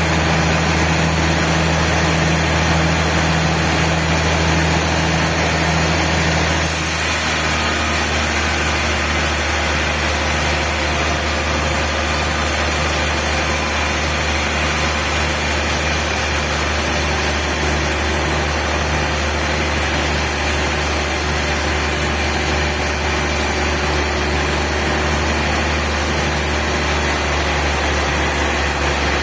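Sawmill machinery running steadily with a low engine-like hum. About seven seconds in, the sound changes abruptly to a slightly different pitch pattern with a faint regular pulsing.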